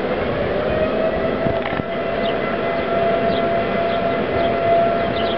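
Outdoor tornado warning siren sounding a wail that rises in pitch over the first second and then holds steady, over a steady rushing noise.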